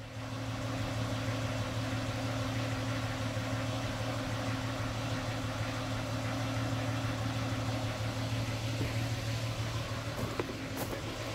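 1996 Ford Mustang engine idling steadily, heard at the exhaust, while it burns antifreeze and blows thick white coolant smoke out of the tailpipe.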